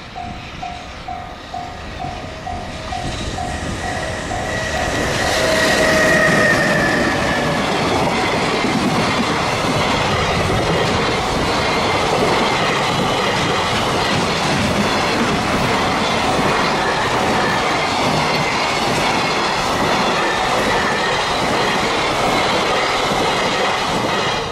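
A Japanese level-crossing bell dinging about twice a second. About five seconds in, an EH500 electric locomotive hauling a freight train passes close by with a brief falling whine, and a long run of freight wagons follows, rumbling and clattering over the rail joints.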